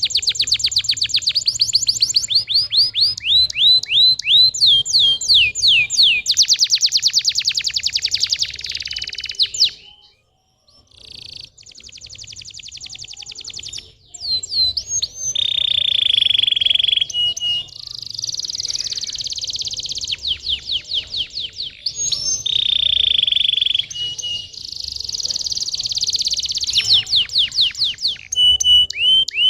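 Domestic canary singing a long song of fast trills and rolls, with a short break about ten seconds in and two long held notes later on.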